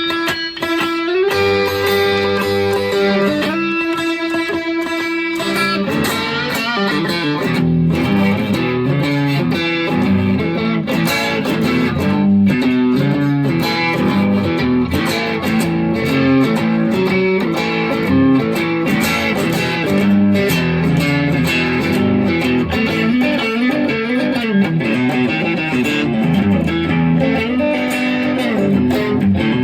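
Squier Affinity Stratocaster electric guitar played through an amp on its single-coil neck pickup: a few long ringing notes over the first six seconds, then a busier run of quick notes.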